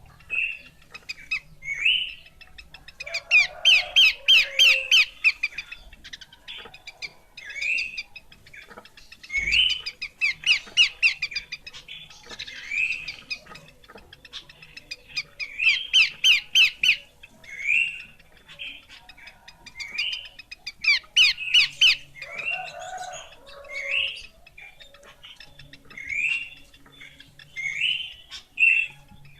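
Pelanduk semak, a babbler, calling: short rising whistled notes repeated every second or two, broken four times by a loud, fast run of chattering notes.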